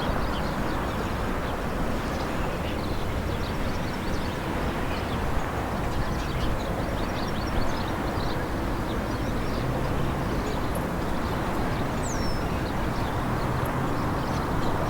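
Outdoor town ambience: a steady low rumble with scattered faint light clicks, and one short falling high chirp about twelve seconds in.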